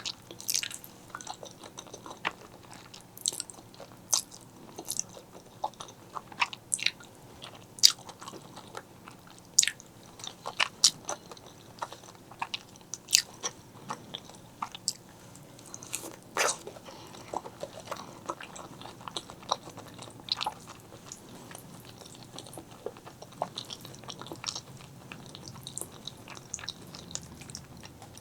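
Close-miked chewing and biting of black bean noodles and fried eggs: an irregular string of sharp mouth clicks and crunches, thinning out over the last few seconds.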